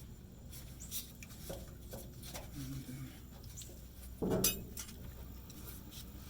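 Small metal clinks and taps from parts and hand tools being handled, with a louder knock about four seconds in.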